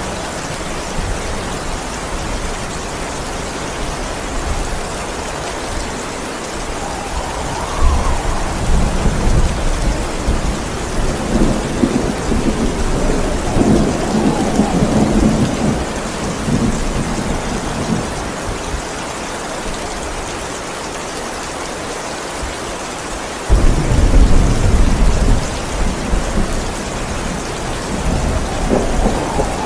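Steady heavy rain with rolling thunder. The thunder rumbles and swells through the middle, then a sudden louder thunderclap breaks in about three-quarters of the way through.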